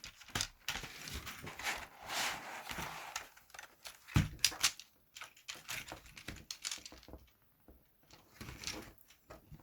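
Plastic computer keyboard case being forced open by hand: scattered clicks and knocks of the plastic housing with a scraping rasp, and a loud sharp crack about four seconds in.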